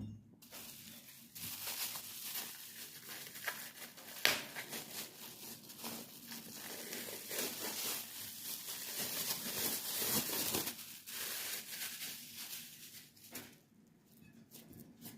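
Continuous crackling, crinkling rustle with many small clicks. It is loudest about ten seconds in and dies away near the end.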